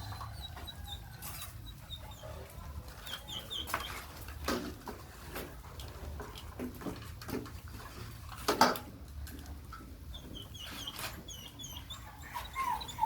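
Puppies squeaking in short, high little runs, with scattered clicks and knocks from feeding and one sharper knock past the middle.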